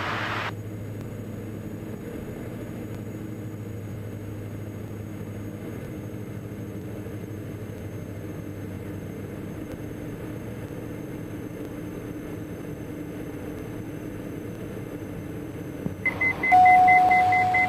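Diamond DA42 NG's twin Austro AE300 turbodiesel engines running as a steady drone heard through the cockpit intercom. Near the end a pulsing high beep and a steady tone of about a second come in, a cockpit alert sounding.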